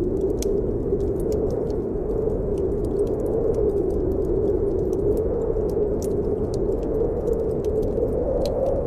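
Snowstorm wind blowing steadily with a low tone that slowly wavers in pitch, over a wood fire in a fireplace crackling with frequent small sharp pops.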